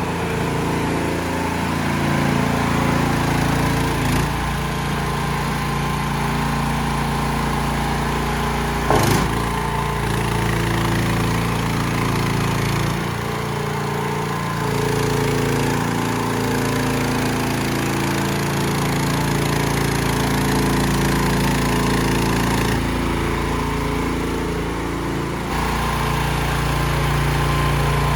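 Small engine of a mini skid steer loader running steadily, its note shifting in pitch a few times, with one sharp knock about nine seconds in.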